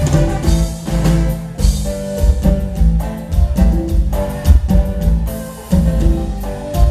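A live cumbia band playing an instrumental stretch, with bass and drums keeping a steady beat under held melody notes.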